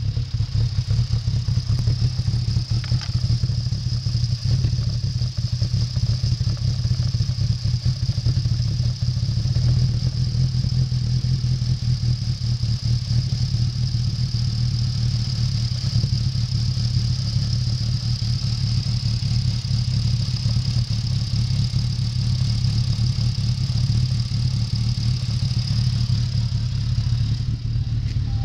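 2006 Volkswagen Jetta's 2.5-litre inline five-cylinder engine running steadily at idle, with a steady high hiss above the engine note.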